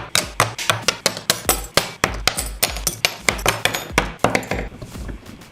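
Rapid sharp metallic clicks and clinks of small metal construction-kit pieces and fasteners, several a second, over a steady low beat. The clicking thins out about five seconds in.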